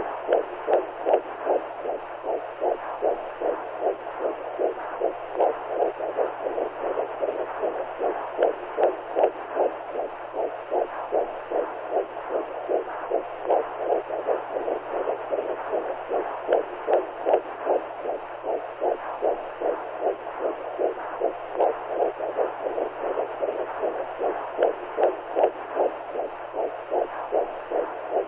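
Womb sound for soothing newborns: rhythmic, whooshing heartbeat-like pulses, about two a second, over a steady hiss and a faint low hum.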